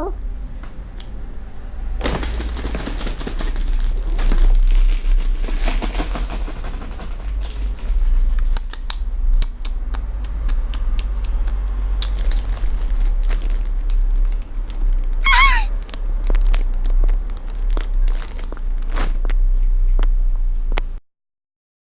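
Crinkling, crackling rustle made up of many small clicks, over a steady low hum. One short, high, wavering call comes about fifteen seconds in.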